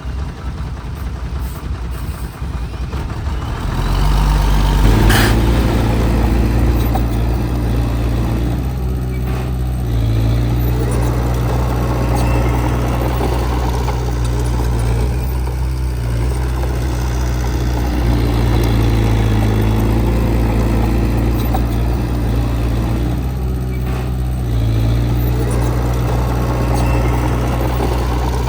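Heavy machinery diesel engine running. It grows louder about four seconds in, then runs on steadily at a low pitch.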